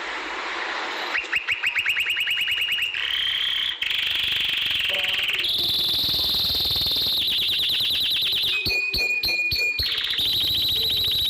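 Domestic canary singing a long song of very fast trills, each held for a second or two before it switches to a new pitch or pattern. The song starts about a second in.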